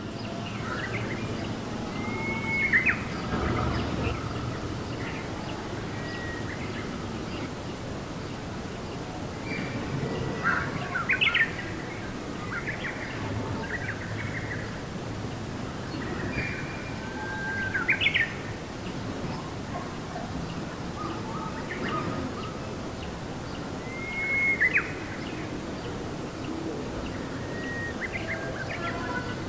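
Birds singing and calling: many short chirps, with a louder phrase (a held whistle ending in a sharp upward sweep) repeated about every seven seconds.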